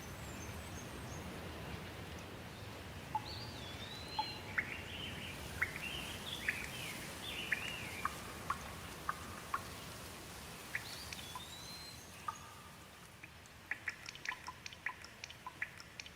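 Steady rain with a bird singing short chirps and slurred whistles, its phrase starting about three seconds in and again near eleven seconds. Later the rain thins and gives way to a run of separate water drips ticking.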